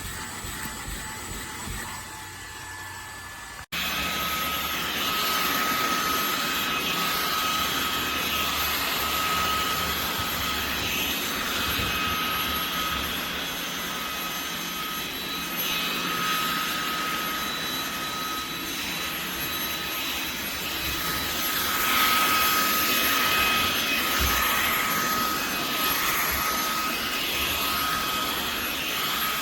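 Fanttik Slim V8 Apex cordless handheld vacuum running, a steady rush of air with a high motor whine. Almost four seconds in it cuts off abruptly and comes back louder, with a different whine pitch.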